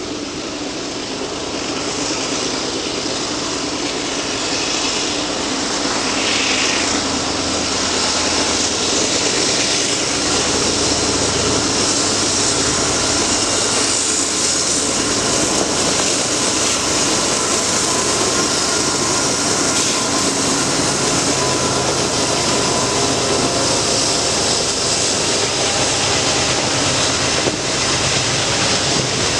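A Norfolk Southern train running past: a steady, loud mix of rumble and rolling noise with low engine tones underneath.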